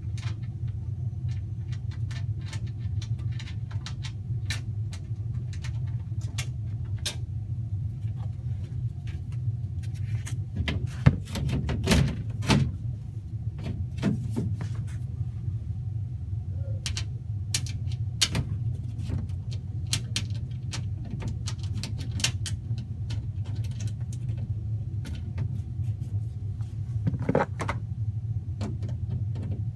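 Steady low hum of running HVAC equipment with scattered clicks, knocks and rattles from handling air filters and the sheet-metal panels of an air handler, louder knocks about eleven to thirteen seconds in and again near the end.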